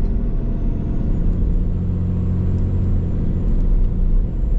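Cummins turbo-diesel pickup engine running under light throttle, heard from the cab: a steady low engine rumble with a thin, high turbo whistle that rises slightly in the first second and then holds. The whistle carries through because of the open Banks ram-air intake; with the stock intake it could not be heard.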